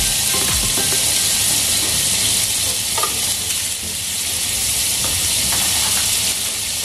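Butter melting and sizzling in a hot nonstick frying pan: a steady hiss with faint crackles.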